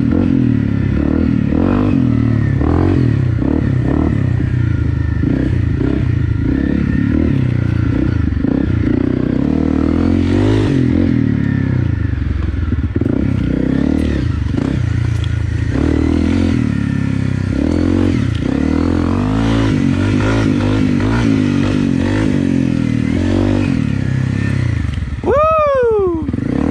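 Honda CRF250 Rally's single-cylinder four-stroke engine, breathing through an FMF PowerCore 4 exhaust, running hard under load on a trail ride, with its revs rising and falling and some clatter. Near the end the revs drop sharply, then rise and fall quickly a few more times.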